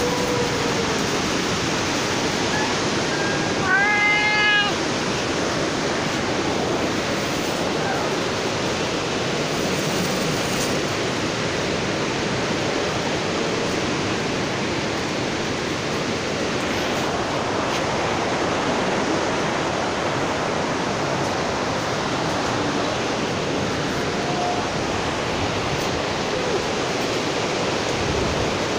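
A black stray cat meows once, about four seconds in, over a steady rush of strong typhoon wind.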